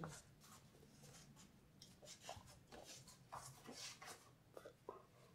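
Near silence: room tone with a few faint, scattered soft rustles and taps.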